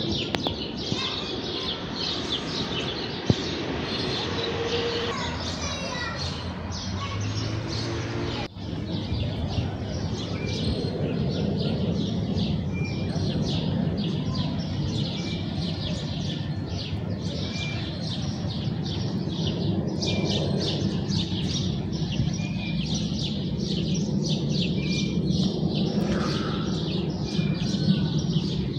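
A flock of house sparrows chirping, many short overlapping chirps without pause, over a steady low background rumble. The sound breaks off abruptly and resumes about eight seconds in.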